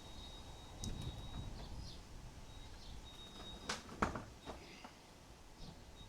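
Two sharp knocks close together about three and a half to four seconds in, over low rumbling noise, with a thin high tone and faint chirps that come and go.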